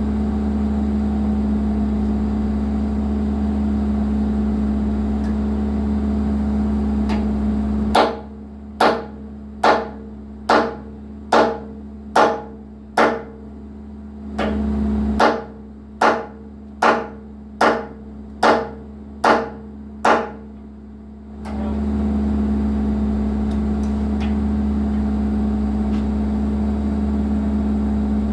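John Deere 120 excavator's diesel engine running steadily. About eight seconds in, it gives way for some thirteen seconds to a string of about fourteen sharp, evenly spaced strikes, a little more than one a second, each ringing briefly.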